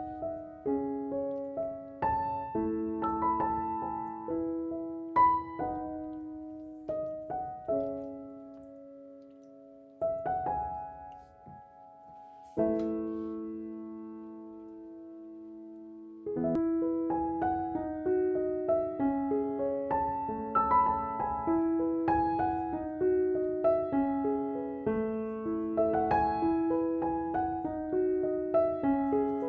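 Background piano music: a gentle melody of single notes and chords, thinning out near the middle with one long held chord before the playing picks up again.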